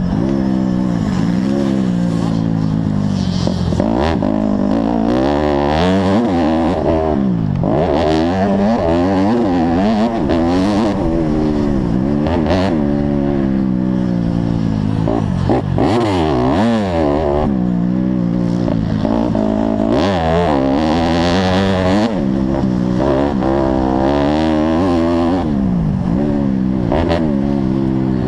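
Honda CRF150R single-cylinder four-stroke motocross engine revving hard, its pitch climbing and dropping over and over as the throttle is opened and shut, with some clatter mixed in.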